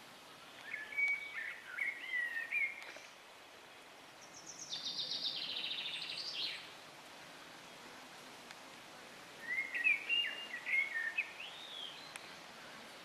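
Songbirds singing: a warbling whistled phrase about a second in and another around ten seconds, with a fast trill of repeated notes falling in pitch between them, over a faint outdoor hiss.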